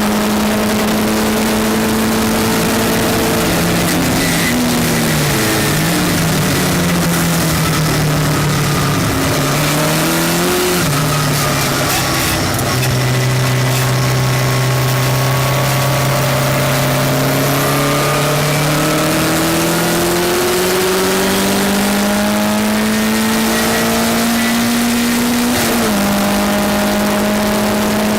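Westfield race car's engine heard on board at racing speed: the note drops through a few downshifts early on, runs low through the middle, then climbs under acceleration and falls at an upshift near the end.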